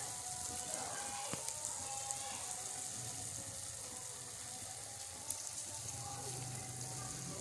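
Chicken jalfrezi sizzling in a metal pan on the heat: a steady, soft, even hiss.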